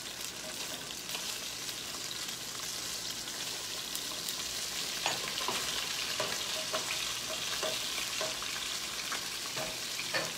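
Boneless chicken thighs sizzling steadily as they sear in butter and olive oil in a skillet. From about five seconds in there are a few light knocks as a wooden spatula turns them in the pan.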